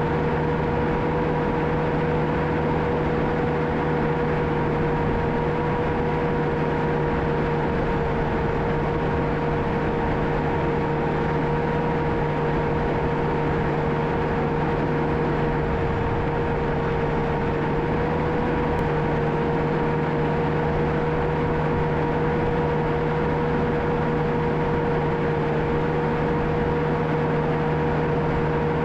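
John Deere 650K crawler dozer's diesel engine running at a steady speed, with a constant high whine over it.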